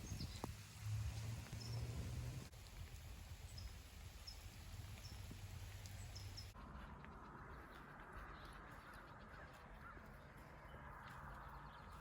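Faint outdoor ambience with scattered short bird chirps. About halfway through it changes abruptly to a steady hiss.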